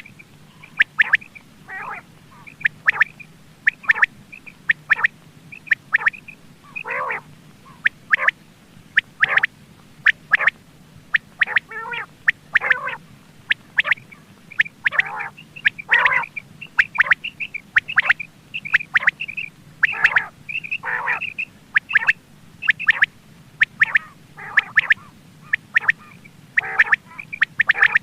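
Quail calling: a rapid, irregular series of short, sharp calls, some sliding downward in pitch, over a faint steady hum.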